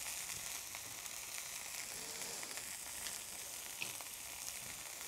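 Chicken pieces sautéing in a little oil in a stainless steel pan, a steady sizzle with scattered small pops as the flipped side browns.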